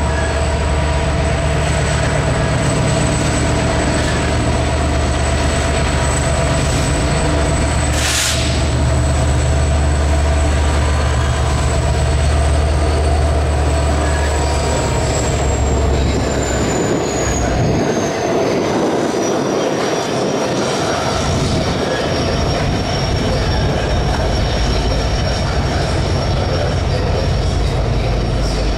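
Union Pacific freight train rolling past: heavy diesel locomotive rumble that fades partway through as the engines move away, under steady wheel-on-rail noise as the freight cars go by. A thin, high, steady wheel squeal runs throughout, sliding lower in pitch partway through. There is one sharp clank about eight seconds in.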